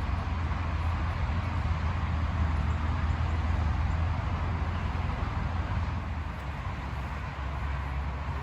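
A vehicle engine running with a steady low rumble and hiss, growing a little louder mid-way and easing off near the end.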